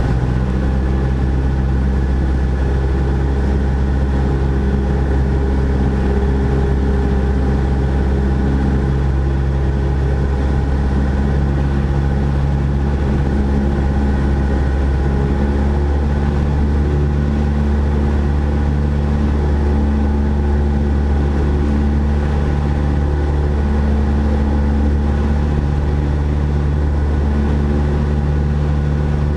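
Cessna 172 SP's four-cylinder Lycoming piston engine and propeller running steadily, with a slight change in the engine note about halfway through.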